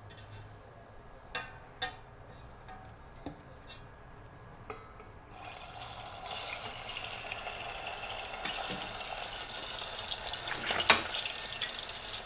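A few light clicks, then about five seconds in a sudden, steady sizzle as floured chicken wings go into hot olive oil and start frying, with a sharp knock near the end.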